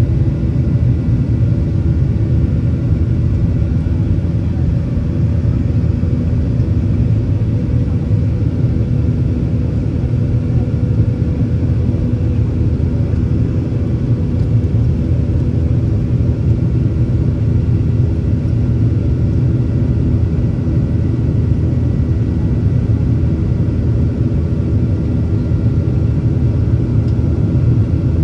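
Inside the cabin of a Boeing 737-800: the steady, deep rumble of its CFM56 engines and airflow, with faint steady whining tones above it.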